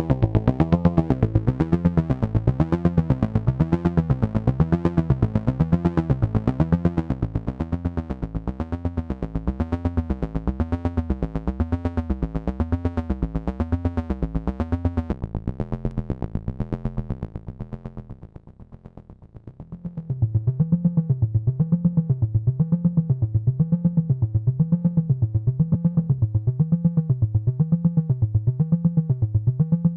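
AnalogFX SER-2020 analog synthesizer, a rebuild of the Synton Syrinx, sounding a low note in fast even pulses while its pitch swings up and down about once a second. About two-thirds of the way through it dips quiet for a couple of seconds, then comes back with the same wobble but a duller, darker tone.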